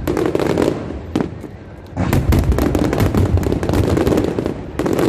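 Aerial fireworks going off in rapid succession, a dense run of bangs and crackles. The bursts thin out for about a second, then a thicker, louder volley starts about two seconds in.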